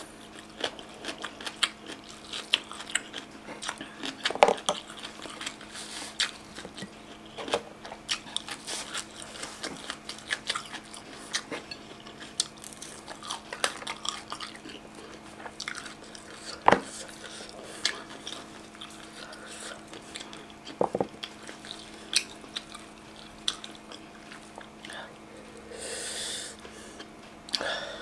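Close-miked chewing and biting: many short, sharp wet mouth clicks and crunches, irregularly spaced. A faint steady hum runs underneath.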